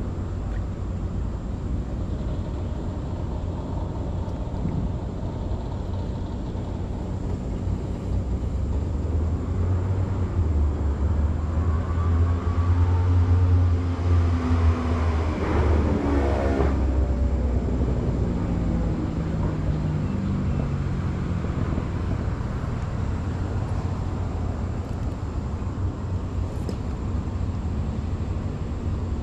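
A steady low motor rumble that swells to its loudest about halfway through, its pitch rising and then falling as it goes by, then settles back to a low drone.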